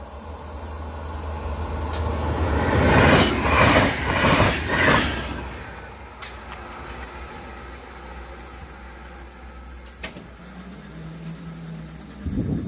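A train passing a level crossing: its noise swells over the first few seconds, peaks with a pulsing beat about twice a second, then fades away to a low steady hum.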